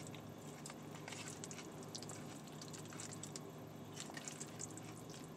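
Close-miked chewing of a mouthful of grilled chicken and rice bowl: soft, wet mouth clicks and smacks, irregular, a couple each second, over a steady low hum.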